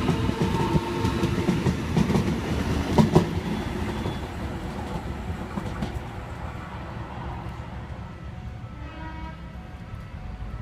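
Eight-car OSCAR (H-set) electric train pulling out and fading as it leaves. A few wheel clicks over the rail joints come about three seconds in.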